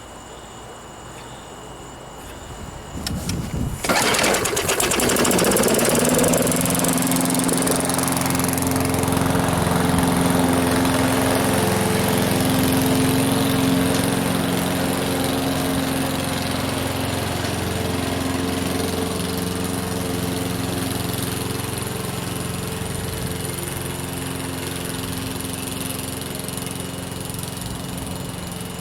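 Craftsman push mower's Briggs & Stratton engine starting about four seconds in after a brief rattle, then running steadily at speed while cutting grass.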